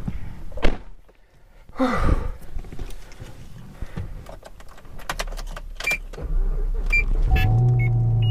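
Knocks and clicks, then about seven seconds in the 2007 Chevy Tahoe's V8 starts and settles into a steady idle.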